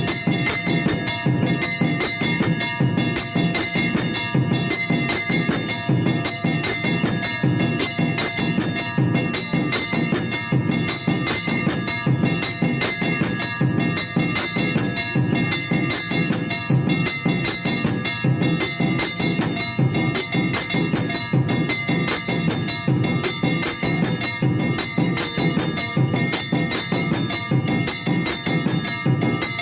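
Temple bells ringing continuously over a fast, steady drum beat, the bell-and-drum accompaniment of a Hindu evening aarti.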